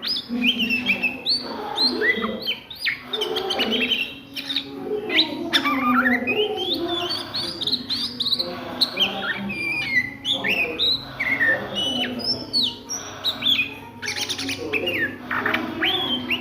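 Oriental magpie-robin (kacer) singing a continuous, varied song of quick whistled notes, rising and falling glides and chattering trills, with hardly a pause.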